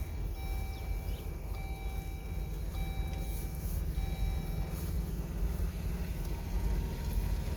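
A vehicle's reversing alarm beeping about once a second, five even beeps that stop about five seconds in, over a steady low rumble of engines running.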